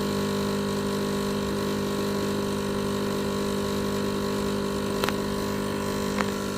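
Espresso machine pump humming steadily while a shot is pulled, with two light clicks near the end.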